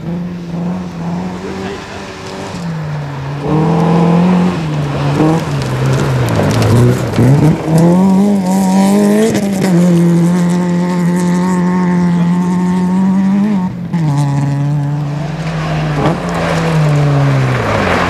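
Fiat Cinquecento rally car's engine revving hard through the gears, its pitch climbing and dropping several times. It holds high and steady for a few seconds in the middle, then drops sharply near the end.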